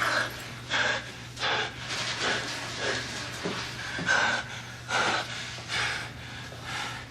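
A person breathing hard: about ten quick, heavy breaths in and out, roughly one every 0.7 seconds, over a steady low hum.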